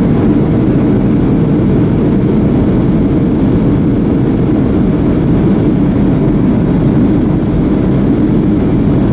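Steady low rumble of a Boeing 737-300 in flight as heard inside the passenger cabin: its CFM56-3 jet engines and the airflow over the fuselage.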